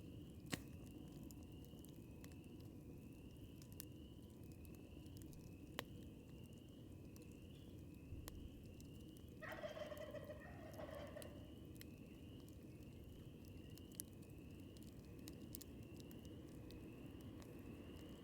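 Distant wild turkey gobbling once, a rapid two-second rattle about nine seconds in, over a faint crackling campfire with a few sharp pops. A high chirp repeats about twice a second throughout.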